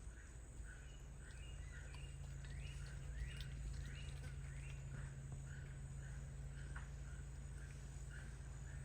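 Faint series of short, high chirping calls, about two a second and irregularly spaced, some sweeping upward, over a steady low hum.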